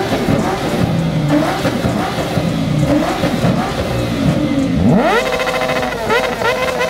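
Car engines revving among other running cars. About five seconds in, one engine revs up sharply and holds at high revs, then is blipped several times in quick rising bursts.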